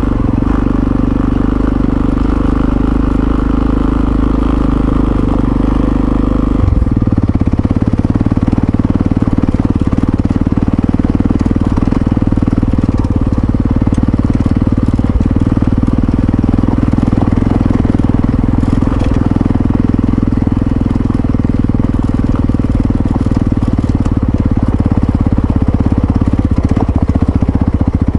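Yamaha XT660Z Ténéré's single-cylinder engine running steadily as the motorcycle rides along; the engine note changes abruptly about seven seconds in and then holds steady.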